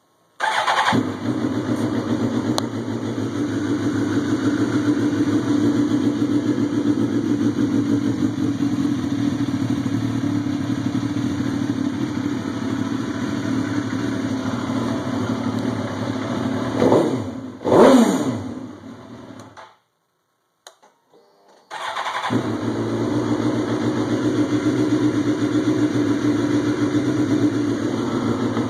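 Cold start of a 2005 Suzuki GSX-R 1000's inline-four engine: it catches about half a second in and idles steadily, is revved up briefly, then stops. After about two seconds of silence it is started again and idles.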